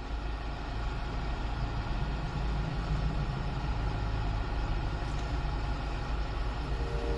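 Kia Bongo 3 truck's engine idling steadily, a low, even rumble.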